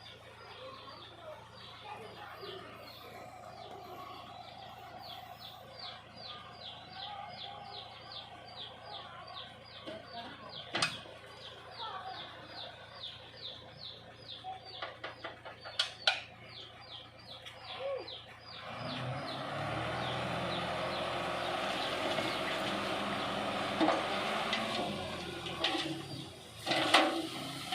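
A bird chirping in a fast, even series of short high calls, about three a second. About two-thirds of the way through, a louder steady rushing begins as the dump truck's load of soil slides out of the tipped bed, with knocks near the end.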